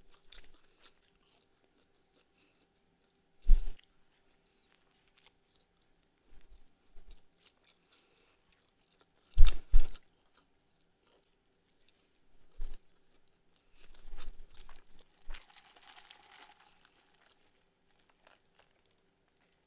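Close-miked eating: a few crunchy bites and chewing of breakfast food, with quiet gaps between. The loudest bite comes near the middle, as a quick double crunch.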